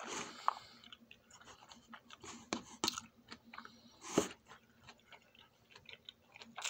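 A person chewing food close to the microphone: irregular wet mouth clicks and crunches, the loudest a little past four seconds in.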